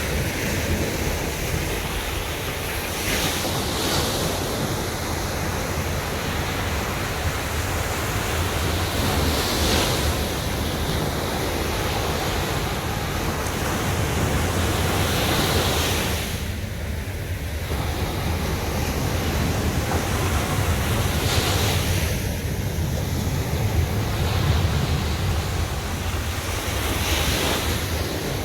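Mediterranean sea waves breaking on a sandy beach. A hiss of surf swells and fades about every six seconds over a steady low rumble.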